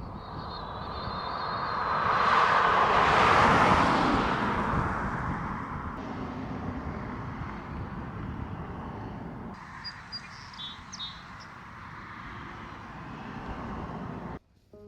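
A vehicle passing by, its noise swelling to a peak about three or four seconds in and then fading to a steady lower rumble.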